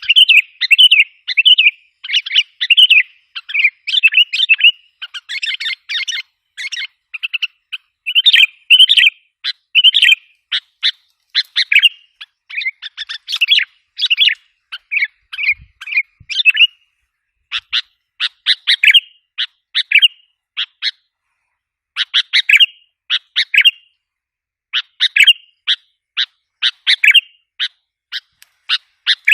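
Sooty-headed bulbul (kutilang) lure calls: rapid runs of short, chattering chirps, repeated again and again with only brief pauses.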